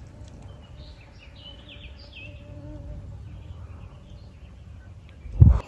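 A flying insect buzzing close by, over a low outdoor rumble, with faint high chirps in the first half. A brief low thump a little over five seconds in is the loudest sound.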